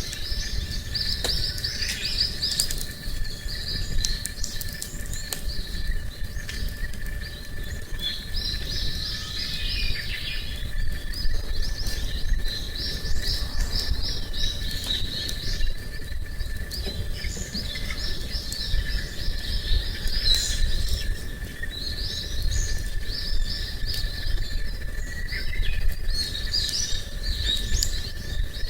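Small birds singing, repeating short phrases of quick high chirps every couple of seconds, over a steady thin high drone. Scattered sharp clicks, typical of a campfire crackling, and a low rumble run underneath.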